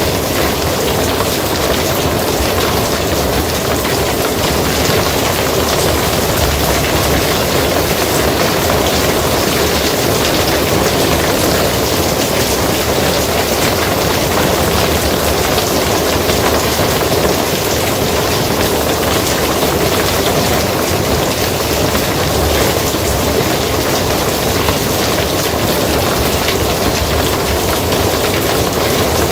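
Steady rain falling on a barn roof, a dense, even patter that doesn't let up.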